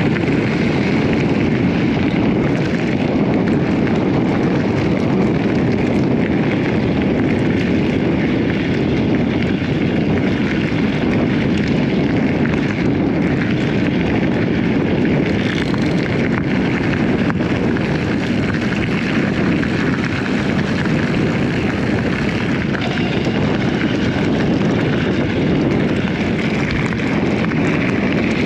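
Steady rumbling noise of an electric mountain bike being ridden off-road: wind buffeting the microphone and tyres running over rough ground.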